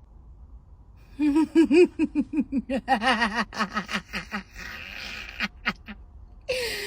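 A rapid run of laugh-like vocal pulses, about four or five a second, sinking in pitch over some three seconds. A short stretch of noise with a few sharp clicks follows, and a gliding vocal sound starts near the end.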